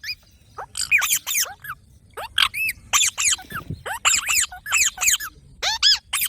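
Green parrots giving short, shrill screeching calls, many in quick succession, each call swooping up or down in pitch.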